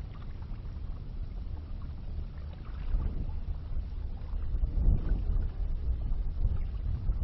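Low rumble of wind on the microphone with faint water sounds from a kayak afloat, and a couple of soft swells in the middle.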